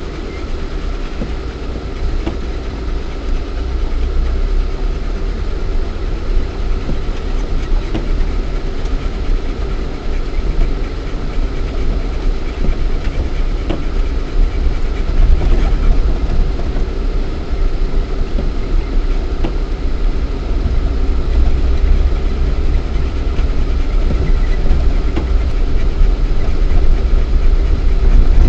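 Lada Niva 1.7i's four-cylinder petrol engine running while the 4x4 drives off-road, heard from inside the cabin. It makes a deep steady rumble with a steady hum over it and scattered knocks and rattles, and grows gradually louder.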